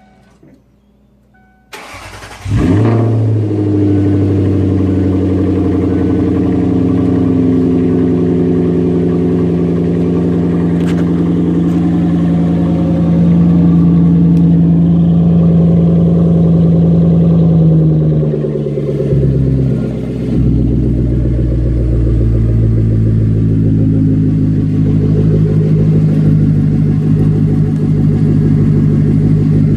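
A 2005 Lincoln LS engine cranks and starts about two seconds in, then idles steadily through an exhaust with an X-pipe and H-pipe in place of the resonators and no mufflers. Around nineteen seconds in the idle dips briefly and settles on a lower note.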